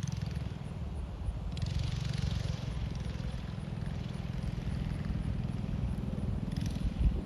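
Wind buffeting the microphone as a low, uneven rumble. Faint under it is a mini bike's 212 cc engine running at a distance.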